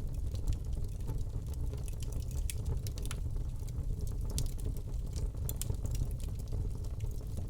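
Wood fire crackling in a fireplace: many scattered sharp pops and snaps over a steady low rumble of the flames.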